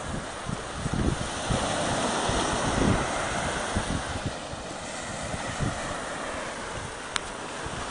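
Surf washing on the beach, with wind buffeting the microphone in gusts. A single brief, sharp high click sounds near the end.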